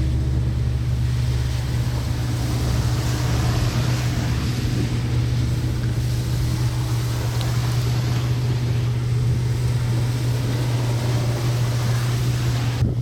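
Steady vehicle noise: a constant low drone under an even hiss.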